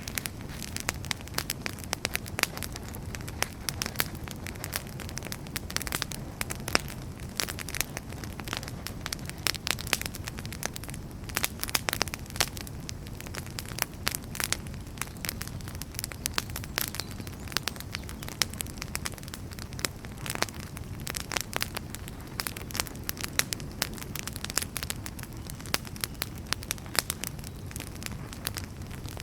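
Wood fire crackling and popping: many sharp, irregular pops over a steady low rumble of the flames.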